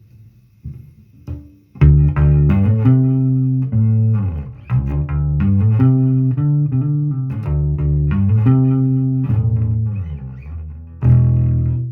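Matrix electric bass guitar played in a run of low, sustained plucked notes, some of them sliding in pitch into the next, after a few soft knocks in the first two seconds; a last strong note is struck near the end.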